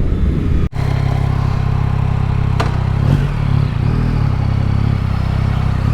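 Yamaha MT-09 SP's 890 cc three-cylinder CP3 engine running steadily at an even, unchanging speed, after a brief break in the sound less than a second in.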